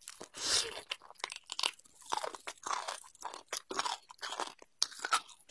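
Close-miked chewing of a mouthful of braised beef bone meat and marrow, with irregular wet crunches several times a second.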